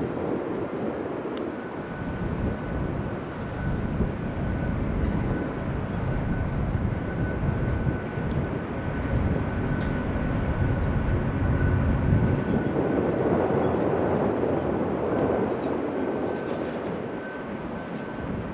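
Boeing 787-10 airliner's jet engines: a steady rumbling noise with a faint, steady high whine. It swells to its loudest about two-thirds of the way through and eases off near the end.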